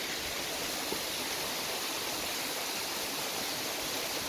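Waterfall running with a low flow, a steady rush of falling water.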